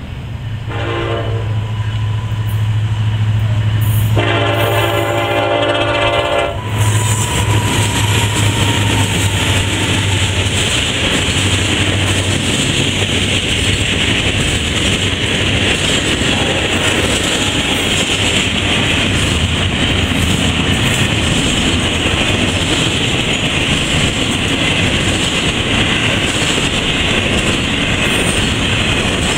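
Freight train locomotive horn sounding for the grade crossing: a short blast about a second in, then a long blast from about four to six and a half seconds. The diesel locomotives then run past and the freight cars roll over the crossing with steady, loud wheel-and-rail noise and clickety-clack.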